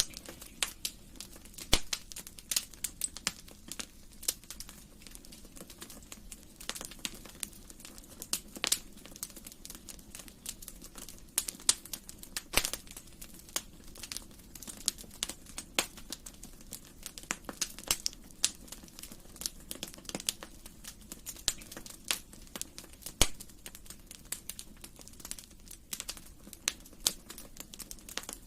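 Wood fire burning in a fireplace, crackling with many sharp, irregular pops over a low steady rumble of the flames.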